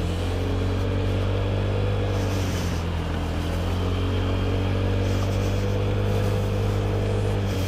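Honda Ruckus scooter's 49 cc single-cylinder four-stroke engine running at a steady riding speed, the pitch easing up and down twice with small throttle changes, over a hiss from the rain-soaked road.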